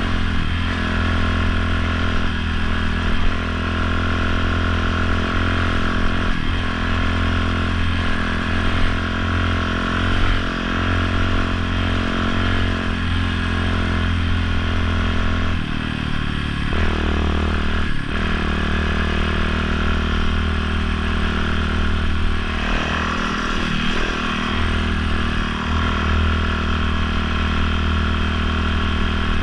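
Dirt bike engine running steadily at cruising speed on a gravel road, its note dropping briefly about sixteen seconds in. A few short knocks sound over the engine.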